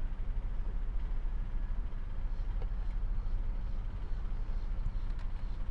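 Steady low rumble of a car engine heard from inside the cabin.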